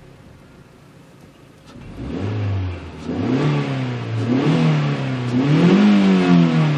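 Opel Zafira B minivan engine, barely audible at idle inside the cabin for about two seconds, then revved in several blips that climb higher each time and ease off near the end.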